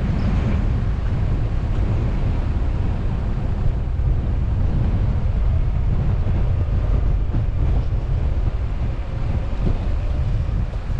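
Steady low rumble of a car driving, mixed with wind buffeting the GoPro's microphone.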